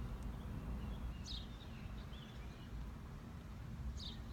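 Steady low background rumble with a few short, high bird chirps, about a second in, halfway through and again near the end.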